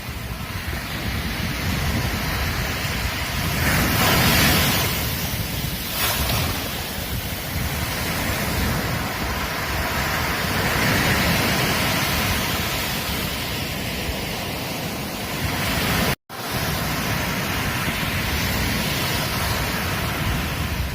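Ocean surf washing onto a beach: a continuous rush of breaking waves, swelling louder as a wave breaks about four seconds in and again around the middle. The sound drops out completely for a split second about sixteen seconds in.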